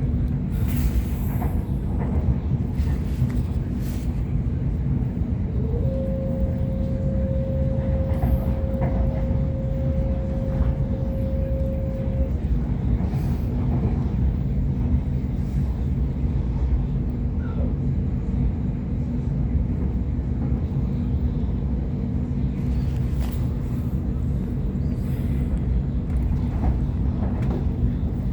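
Onboard running noise of a Sydney Trains Waratah electric multiple unit at speed: a steady low rumble of wheels on track with scattered light clicks. A single steady tone sounds for about six seconds near the middle.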